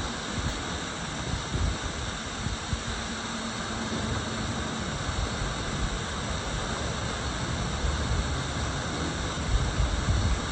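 Yamaha YZF R7's 689 cc parallel-twin engine running steadily through an Akrapovič exhaust, with a low exhaust rumble that strengthens near the end.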